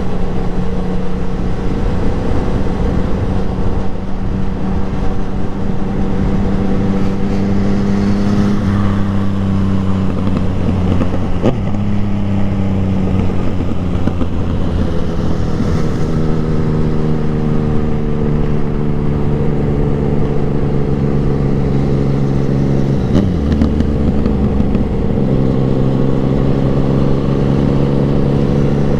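Motorcycle engine running under way, its pitch shifting down and back up a few times as the rider changes speed, over a steady rush of wind noise.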